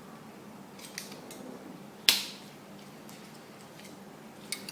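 Folding arms of an Alien 450 quadcopter frame being pulled out: a few light clicks, then one sharp snap about two seconds in, and a small click near the end.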